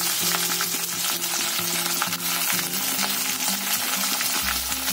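Sliced onions and chillies sizzling in hot oil in a black iron kadai, sautéed for a tempering of mustard seeds and urad dal. The sizzle is steady, with a few light clicks as the pan is stirred.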